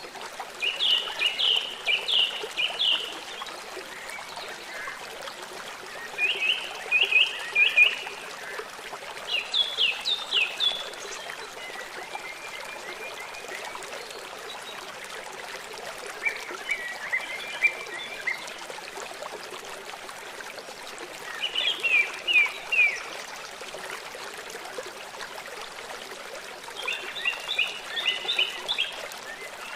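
Running water trickling steadily, with an animal calling in short bursts of rapid chirping notes, six bursts a few seconds apart.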